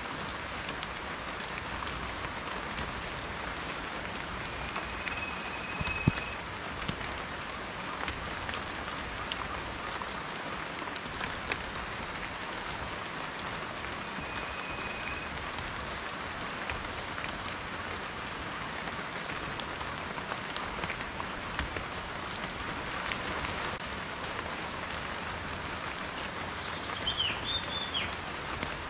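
Steady rain falling, a dense patter with individual drops ticking through it and one sharper drop hit about six seconds in. A few short high notes and a brief chirping call sound near the end.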